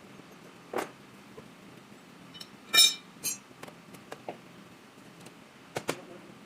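Scattered sharp metallic clinks and knocks, like hand tools or metal parts being handled and set down, with one loud ringing clink near the middle.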